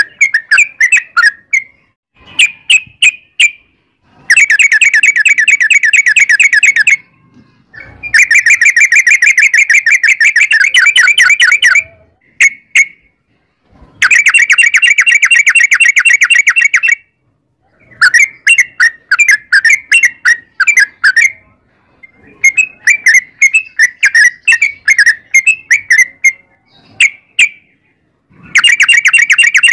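Yellow-vented bulbul (trucukan) singing loudly in phrases of rapid, bubbly repeated notes. Long unbroken rolling runs of a few seconds each alternate with shorter chattering bursts, broken by brief pauses.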